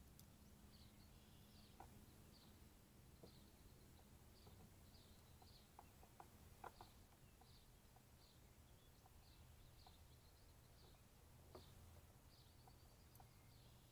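Faint bird chirping: a short high call repeated about every half second, over a low steady hum, with a few soft clicks scattered through.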